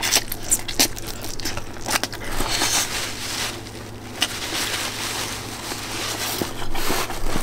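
A person biting and chewing food close to the microphone: irregular crunchy, crackling mouth and food sounds.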